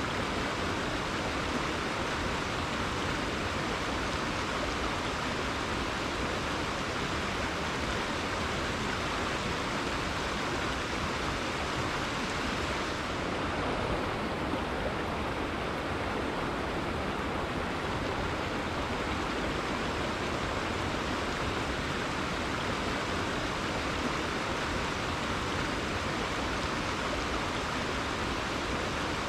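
River water flowing and rushing over rocks, a steady, even rush with no break.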